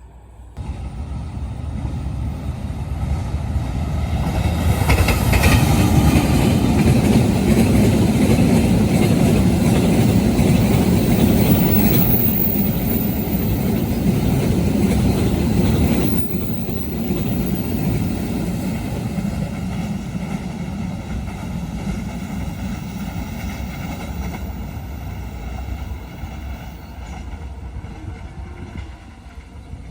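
Train passing close by on the line, its wheels running and clattering over the rails. The sound builds quickly, stays loudest through the middle, drops sharply about halfway through, then fades slowly as the train moves away.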